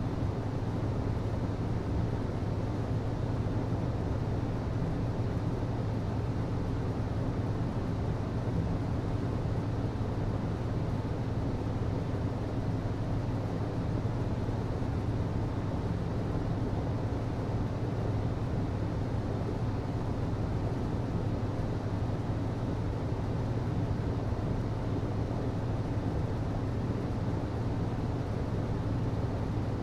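HVAC system running: a steady low hum over an even rush of fan and airflow noise, unchanging throughout.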